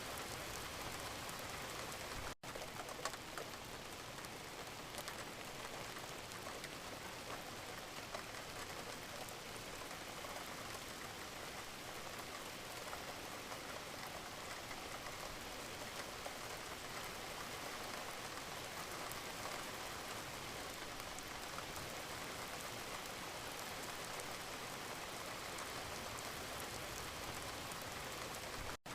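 Steady gentle rain, with many small drops pattering on a surface. The sound drops out for an instant twice, about two and a half seconds in and again near the end.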